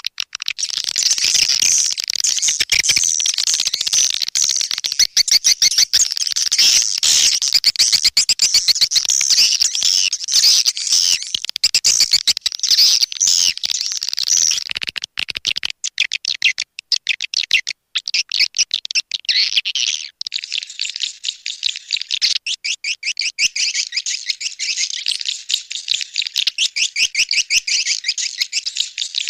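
Swiftlet calling recording, used as a lure for edible-nest swiftlets: dense, rapid, high twittering chirps. Past the middle it thins briefly, then turns into a fast, even train of chirps.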